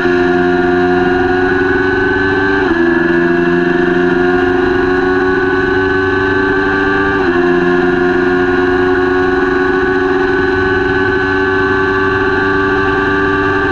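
Kawasaki Ninja 400 parallel-twin engine pulling hard at high revs, its pitch slowly climbing, with two upshifts where the note drops briefly, about three and seven seconds in.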